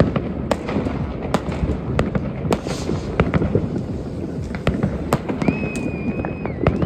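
New Year's Eve fireworks: rockets, firework batteries and bangers going off in a dense, irregular stream of sharp bangs over a constant rumble and crackle. A steady whistling tone rings out for about a second near the end.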